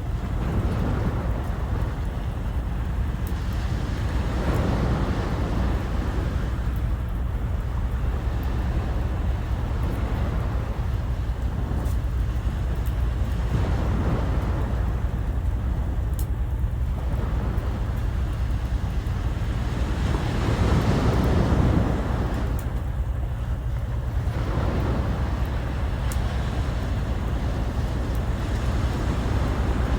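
Sea waves washing ashore, swelling and falling back every few seconds, the largest one about two-thirds of the way through, over a steady low rumble of wind buffeting the microphone.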